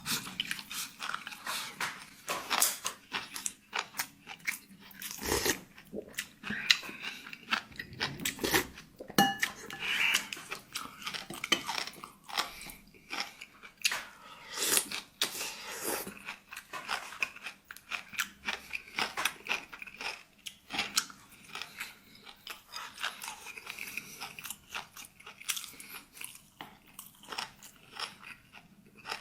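Close-up eating: irregular, steady crunching and chewing of a cold dish of pig's head meat tossed with crisp cilantro roots and raw chili, with rice.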